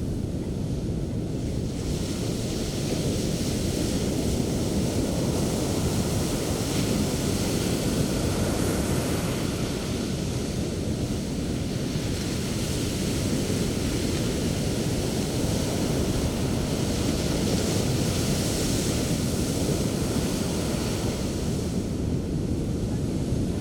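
Sea waves breaking on the shore: a steady low rumble of surf, with the hiss of breaking foam swelling up twice.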